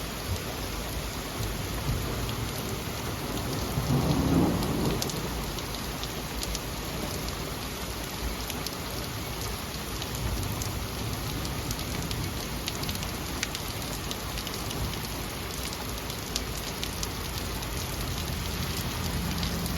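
Heavy thunderstorm rain falling steadily, with fine patter of drops, and a roll of thunder swelling and fading about four seconds in.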